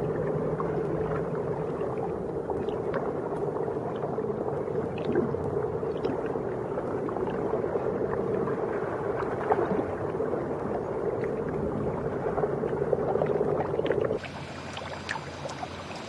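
A steady low drone with a held tone and faint scattered ticks. It cuts off abruptly about fourteen seconds in, leaving a quieter background with small trickling sounds.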